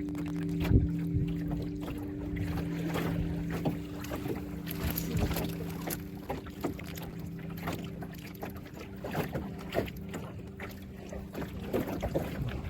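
Motorboat engine running with a steady hum, its pitch shifting slightly about halfway through, while water splashes and knocks irregularly against the hull.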